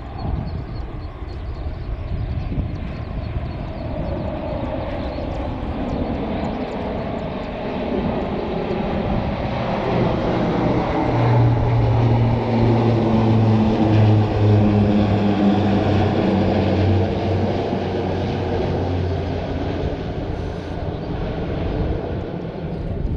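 Aircraft flying past. Its engine drone builds to its loudest about halfway through, then slowly eases off with a low hum dropping slightly in pitch.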